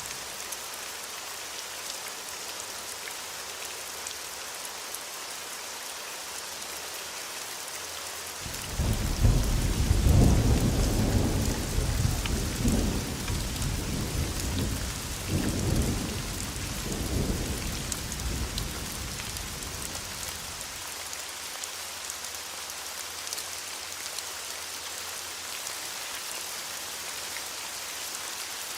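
Steady heavy rain hissing, with a roll of thunder that starts suddenly about eight seconds in, rumbles in several swells and dies away after about twelve seconds.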